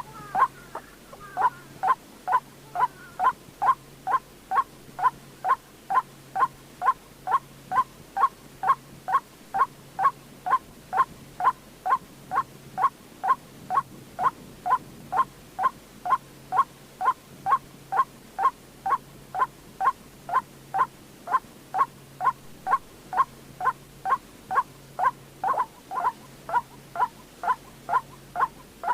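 White-breasted waterhen calling, a short note repeated evenly about twice a second without a break.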